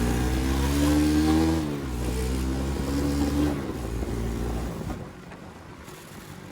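Motorcycle engine accelerating hard, its pitch climbing, dropping at a gear change about a second and a half in, then climbing again before it dies away.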